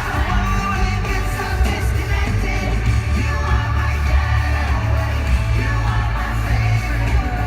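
Live pop-rock band playing loudly through an amphitheater's sound system, with singing over strong steady bass and drums, and occasional yells from the crowd.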